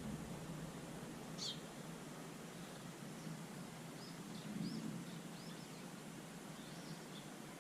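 Eurasian tree sparrows chirping in short, scattered calls: a single chirp about a second and a half in, then a loose run of chirps from about four seconds in, over a low steady background noise.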